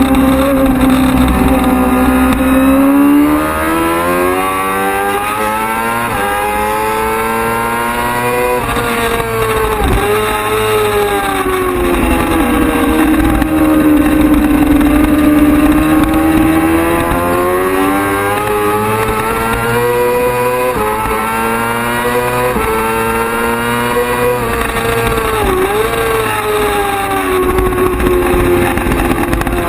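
Racing sport bike engine heard onboard at full throttle. The pitch climbs through several quick upshifts in the first few seconds, drops away as the bike slows, then pulls up again with further shifts and dips.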